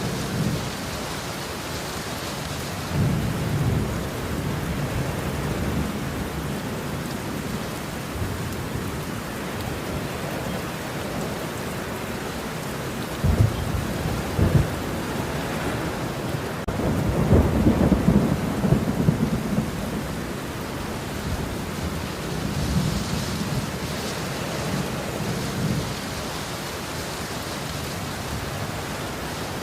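Steady rain in a thunderstorm, with thunder rolling several times: a rumble a few seconds in, sharp cracks about halfway through, then the loudest, longest roll just after.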